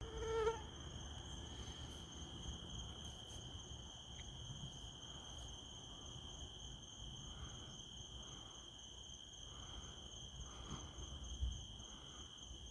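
Crickets giving a faint, steady, unbroken high trill, with a low rumbling haze underneath and a short low thump near the end.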